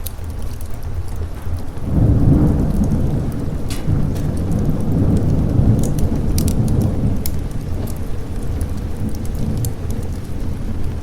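A roll of thunder swells about two seconds in and slowly rumbles away over steady rain, with sharp crackles from a wood fire scattered throughout.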